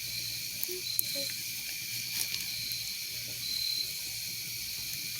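Evening outdoor ambience at a campfire: a steady hiss with a few sharp crackles from the fire, and insects trilling in short stretches a few times.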